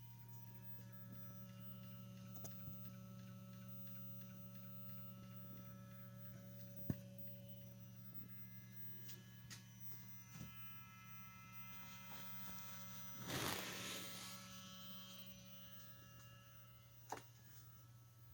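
The mechatronic unit of a VW Golf Mk6's DQ200 seven-speed dry-clutch DSG gearbox hums steadily with the ignition on and the engine off. A few sharp clicks and a short noisy rustle about two-thirds of the way through stand out over the hum.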